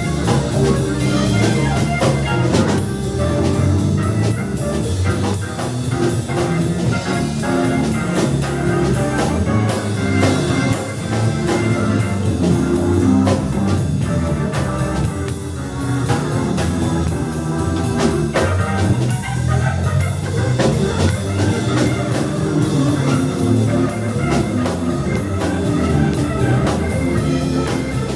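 Live band playing an instrumental tune, with a steady beat throughout.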